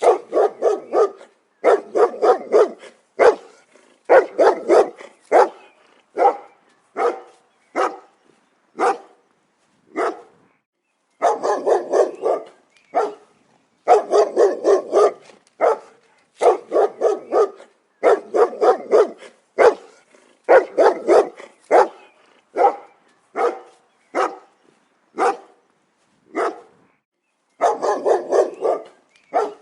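A dog barking over and over in quick runs of several sharp barks, with short pauses between the runs.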